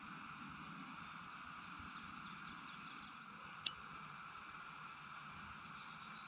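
Faint steady outdoor background with a small bird singing a quick run of short falling notes, then a few more near the end, and a single sharp click a little past halfway.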